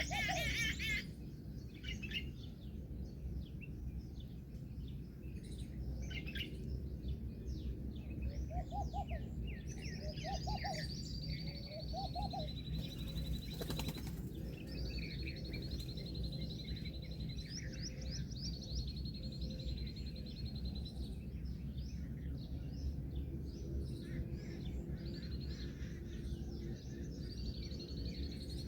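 Birds chirping and calling: many short chirps, and several long high whistles that slide slightly downward, with a few short lower calls, over a steady low background noise.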